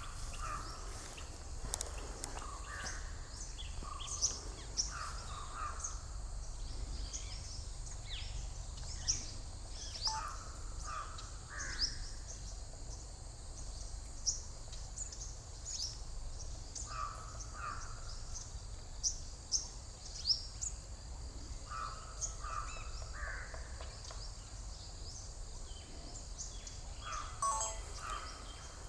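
Birds calling: many short, high chirps scattered throughout, with clusters of lower calls every few seconds, over a steady low rumble.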